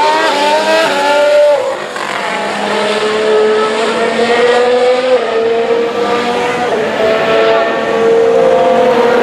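2017 Formula 1 car's 1.6-litre turbocharged hybrid V6 engine at high revs. Its pitch climbs, falls back about a second and a half in, then holds a nearly steady high note with small steps.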